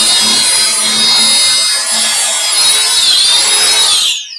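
Electric drill running at full speed with a high whine. Its pitch dips briefly about three seconds in, then falls as the trigger is released and the chuck spins down near the end.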